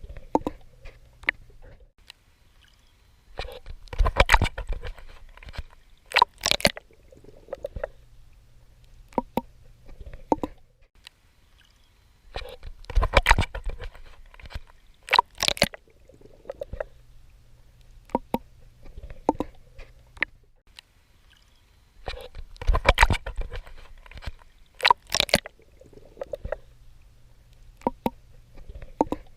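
A swimmer's strokes splashing and sloshing in sea water, in clusters of splashes that come back about every nine to ten seconds, over a faint low rumble.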